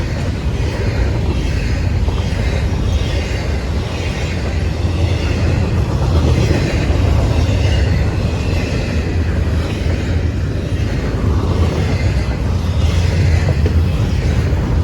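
CSX westbound freight train rolling past at close range: a loud, steady rumble of wheels on rail.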